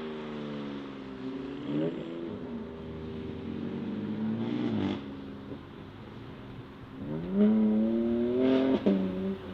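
Modified sports car engine revving hard several times, its pitch climbing and then dropping away. The loudest climb comes about seven seconds in and breaks off suddenly near the end, with a few sharp pops as the revs fall.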